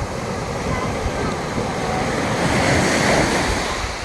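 Sea waves washing onto the shore: a steady rush of surf, with one wave breaking and hissing up the beach about two-thirds of the way through. Wind buffets the microphone with a low rumble.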